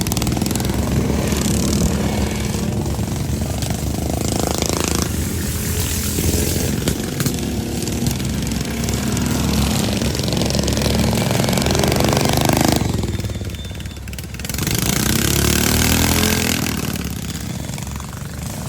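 Several racing lawn mower engines running hard around a dirt track, their pitch rising and falling as they pass. The sound dips briefly about three-quarters of the way through, then one engine comes back loud with a bending pitch as it goes by.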